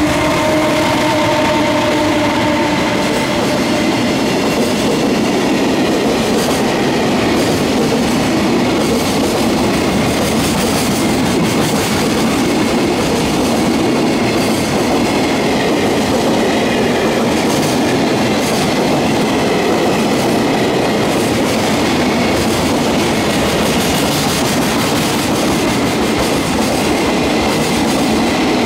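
JR Freight EF200 electric locomotive passing with a whine of several steady tones for the first few seconds, followed by a long container freight train rolling by: a steady rumble with wheels clacking over the rail joints.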